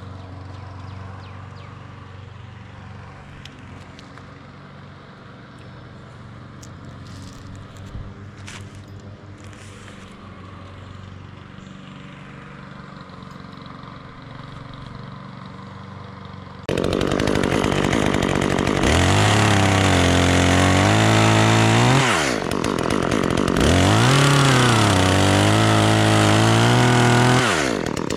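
Chainsaw running at a low, steady idle, then opening up to full throttle about two-thirds of the way in and cutting into the pine. The engine pitch drops and recovers twice as the saw loads up in the wood.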